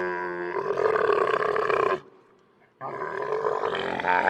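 Two long calls of a large animal, the first ending about two seconds in and the second starting nearly a second later.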